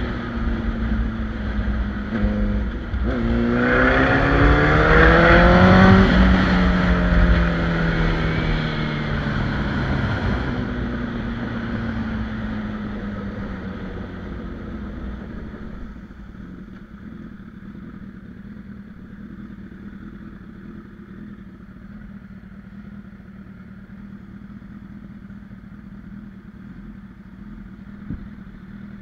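Honda CBR1000RR Fireblade's inline-four engine accelerating hard, its pitch rising for about three seconds, then falling as the throttle closes. From about halfway through it settles to a quieter, steady engine note.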